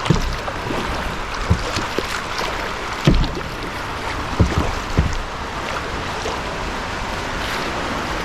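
Kayak in shallow moving water below a low-head dam: steady rushing water with the splash of paddle strokes and a few dull knocks, the loudest about three seconds in.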